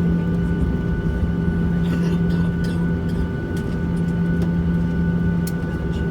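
Steady cabin noise inside a Boeing 737 airliner: the jet engines and airflow give a constant drone with a strong low hum and a few fainter high steady tones, with a few light clicks and rattles in the middle.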